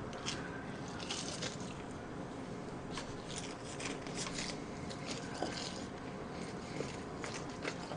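Fried chicken being bitten and chewed: crunching of the crisp coating and wet mouth sounds, in many short irregular bursts.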